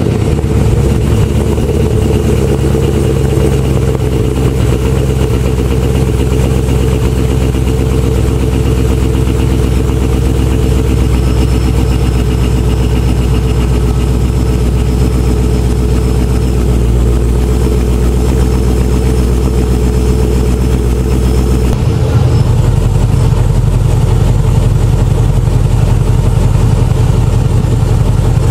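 LS-swapped L98 6-litre V8 in a Holden Commodore idling steadily through its quad-tip exhaust, just after start-up. The idle note changes once, about three-quarters of the way through.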